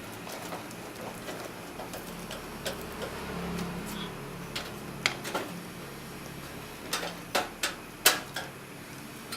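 Scattered sharp clicks and light knocks of computer parts being handled and fitted into a desktop PC case, with a cluster of louder clicks from about five to eight seconds in.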